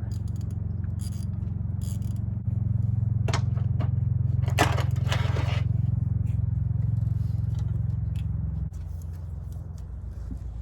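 Metal scraping and clicking as a bolt is worked into the bell housing threads by hand, in a cluster of short strokes a few seconds in, over a steady low hum that grows louder about two seconds in and drops back near the end.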